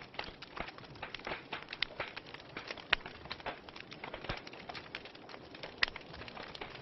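Wood fire burning in a fireplace, crackling steadily with irregular sharp snaps and a few louder pops.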